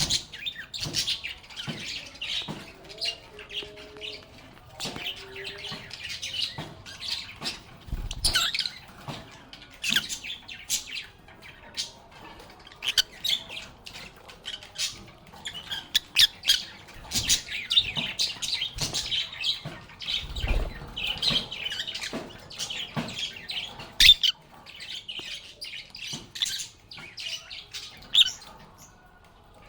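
Lovebirds chattering: a dense, continuous stream of shrill chirps and squawks. A few sharp knocks come through, the loudest about three-quarters of the way in.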